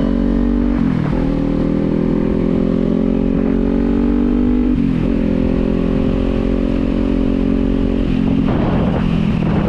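Kawasaki Z400's parallel-twin engine pulling steadily under way. Its pitch breaks and drops briefly three times, about a second in, halfway through and near the end, like gear changes.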